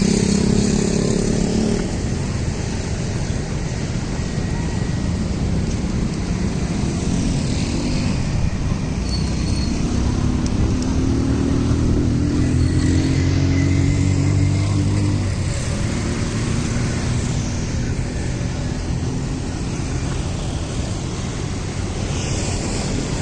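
Steady street traffic with motor vehicles passing. One engine's note rises for several seconds and then stops abruptly a little past the middle.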